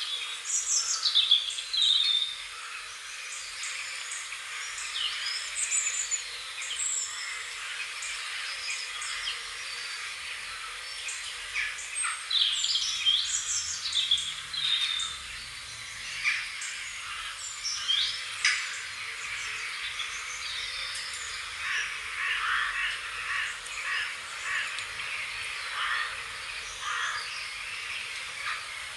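Wild birds chirping and calling over one another in quick overlapping notes and short pitch glides, over a steady background hiss.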